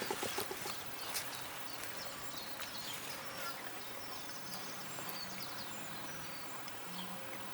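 Quiet outdoor background noise with scattered faint, high, short chirps, with a few light clicks at the very start.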